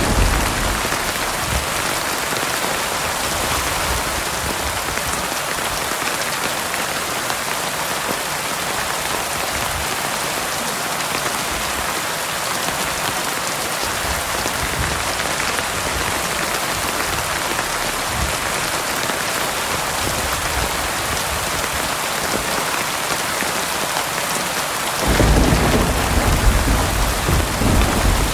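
Heavy rain falling steadily in a dense hiss. Near the end a low rumble of thunder swells up and lasts a few seconds.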